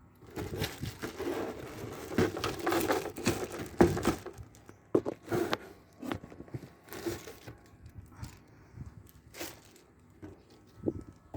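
Packaging being handled during an unboxing: irregular rustling and crinkling with sharp clicks and knocks, busiest in the first few seconds and then sparser.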